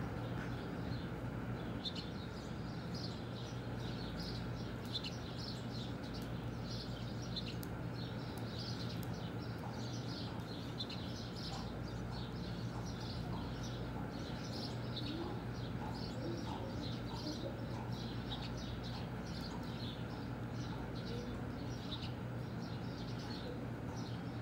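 Birds chirping busily throughout, many short high chirps overlapping, over a steady low hum.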